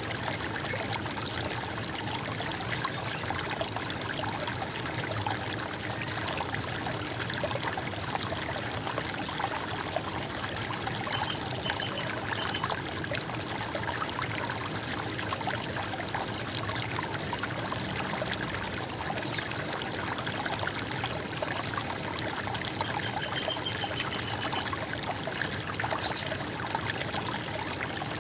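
A stream of running water, trickling and splashing steadily without a break.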